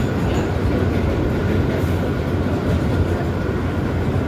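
New York subway car in motion, heard from inside the car: a steady low rumble with rattling from the wheels and car body.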